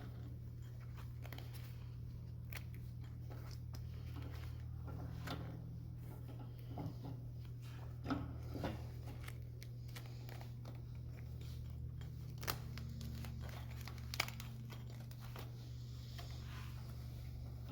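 Steel wire-rope strands being twisted and worked by hand into a cable eye: scattered light clicks and scrapes, with a few sharper metallic ticks in the second half, over a steady low hum.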